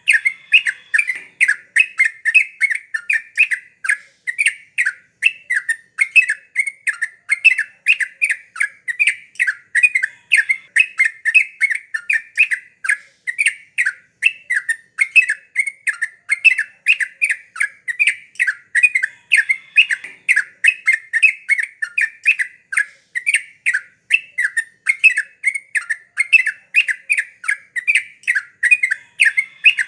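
Yellow-vented bulbul (trucukan) singing on and on: a rapid, unbroken run of short chattering notes, several a second, of the kind played to lure a silent caged bulbul into singing.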